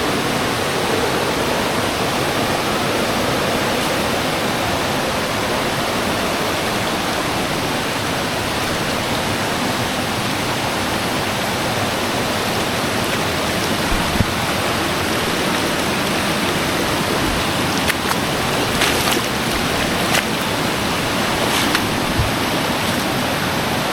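Steady rush of a rainforest river running over rocks and small cascades. A few light knocks sound in the second half.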